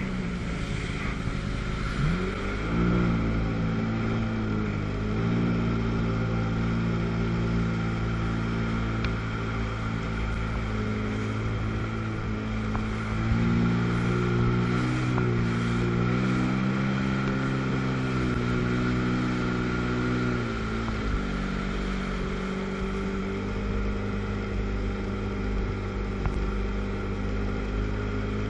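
Two-stroke twin-cylinder jet ski engine running at low speed. It rises in pitch a couple of seconds in and again about halfway through, then settles back down about three quarters of the way through.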